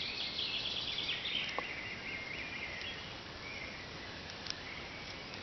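Quiet forest ambience with small creatures chirping in the background, busiest in the first couple of seconds, and a few faint ticks.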